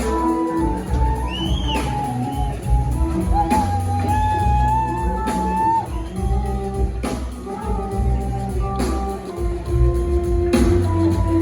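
A live band playing in a large concert hall, heard from the audience: electric guitar with long, bending held notes over drums and bass.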